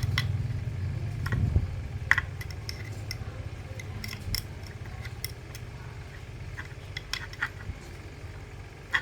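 A low mechanical hum that slowly fades, with scattered light metallic clinks.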